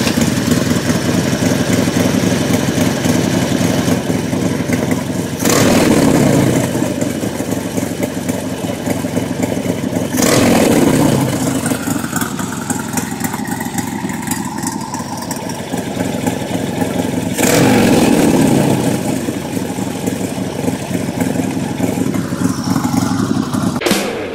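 A Harley-Davidson Sportster V-twin running through a 2-into-1 aftermarket exhaust. It idles steadily and is revved three times, about five, ten and seventeen seconds in, each rev falling back to idle.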